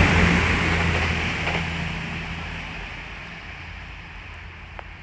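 East Midlands Railway Class 222 Meridian diesel multiple unit accelerating away under power: the steady drone of its underfloor diesel engines and the rush of wheels on rail fade steadily as it recedes. The low engine drone dies out about three seconds in.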